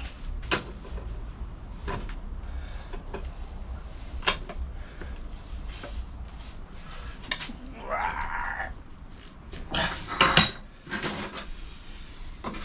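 Sheet-steel panel being handled and worked by hand: scattered metallic clinks and knocks, a scrape about eight seconds in, and the loudest clanks around ten seconds in.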